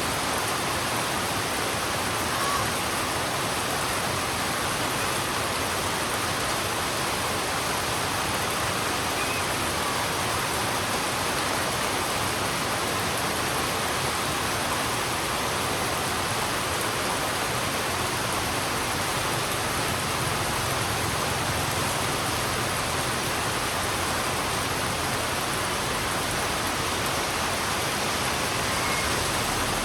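Heavy rain falling steadily on a road, an even hiss without pause.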